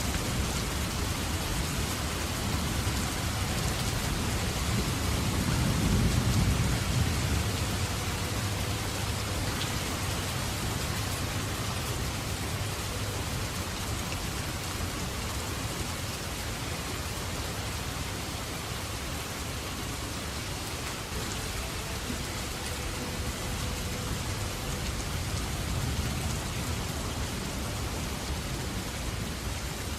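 Steady rain pouring down, with a low rumble of thunder swelling about five seconds in and fading over a few seconds.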